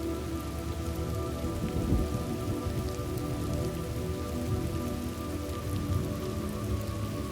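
Steady rain ambience with a soft background music pad holding long, sustained notes. There is a brief low thump about two seconds in.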